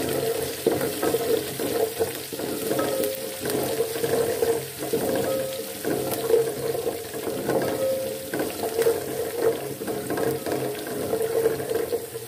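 Cumin seeds, chopped garlic and green chillies sizzling in hot oil in a steel pot, stirred with a wooden spoon that knocks and scrapes against the pot.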